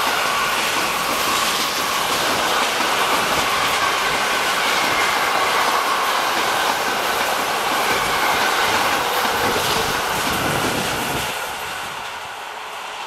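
Freight train of double-deck car-carrier wagons rolling past at close range, a steady loud clatter and rumble of wheels on rails with a faint high ringing over it. The noise fades over the last second or two as the end of the train goes by.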